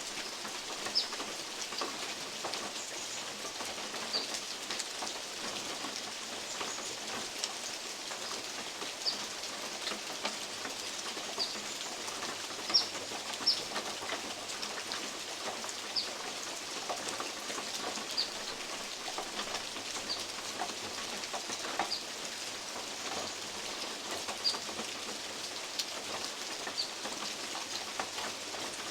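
Steady rain falling in woodland, with big drops from oak leaves landing on a metal roof as irregular sharp taps, about one every second or two.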